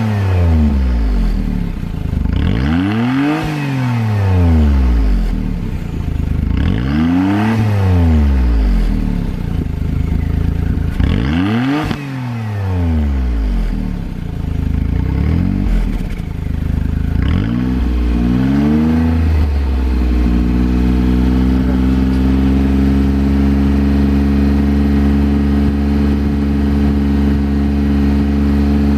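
Suzuki Alto Works HA11S's F6A 660 cc turbocharged three-cylinder engine, heard through an APEX N1 Evolution aftermarket muffler. It is revved up and let fall back about every four seconds, four times, then blipped once more briefly and settles to a steady idle; near the end it starts to rise again.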